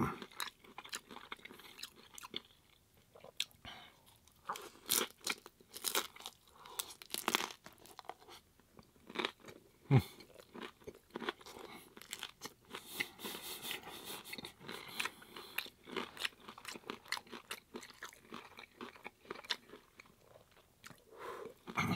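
Chewing a mouthful of hard corn taco shell: irregular sharp crunches as the shell breaks up, with softer chewing between.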